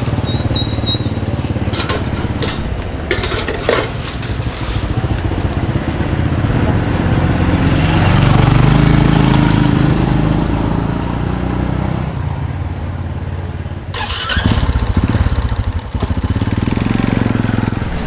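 Small motorcycle engine running, growing louder about eight to ten seconds in, with a brief drop near fourteen seconds.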